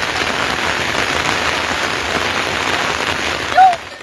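Steady rain falling, which stops suddenly near the end. Just before it stops there is one short, loud call.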